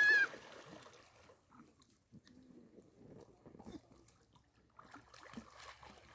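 A short, high-pitched shout at the very start, then quiet, irregular small splashes and drips of lake water.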